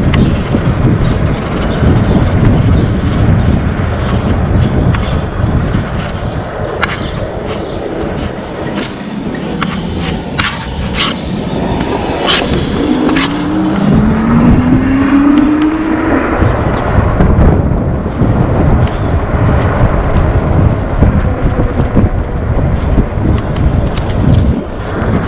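Wind rushing over the microphone and rolling tyre noise from an e-bike riding on pavement, with scattered clicks and a brief rising tone about halfway through.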